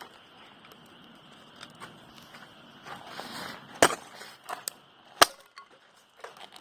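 Wood in a campfire popping: a handful of sharp, separate cracks, the two loudest about four and five seconds in, over a quiet background.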